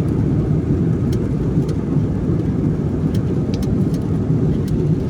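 Aeroplane engines and airflow during takeoff: a steady, loud, low rumble, with a few faint brief ticks scattered through it.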